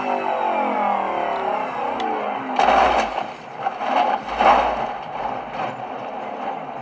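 Car engine sound, its pitch falling over the first two seconds like a vehicle going past, then a few short louder surges in the middle.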